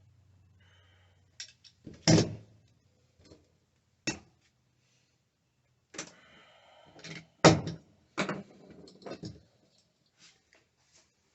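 Irregular knocks, thunks and clicks of hands-on work, the loudest about two and seven and a half seconds in, with smaller taps and rustles between them.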